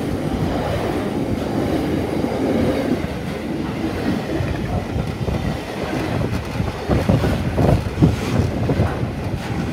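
Container wagons of an intermodal freight train rolling past at close range: a steady rumble of steel wheels on the rails, with several louder clunks about seven to eight seconds in.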